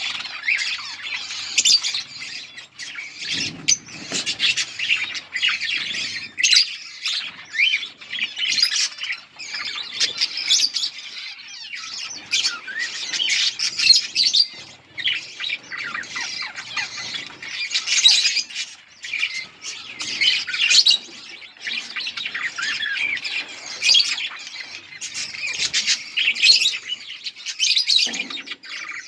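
A group of budgerigars chattering and chirping continuously, with rapid overlapping warbles and short squawks.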